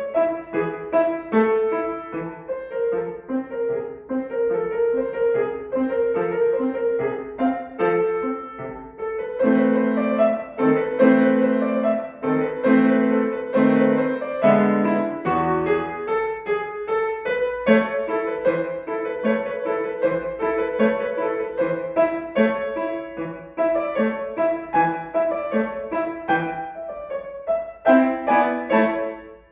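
Acoustic piano playing a classical piece: a steady stream of notes, with a louder passage of repeated low chords in the middle.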